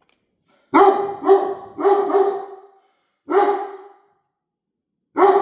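Central Asian Shepherd puppy barking: a quick run of four barks about a second in, a single bark a second later, and another near the end. The owner takes it to be barking at its own reflection in the glass.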